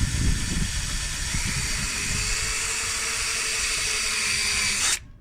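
Electric drill running steadily as it bores a hole through a piece of wooden decking, stopping suddenly about five seconds in.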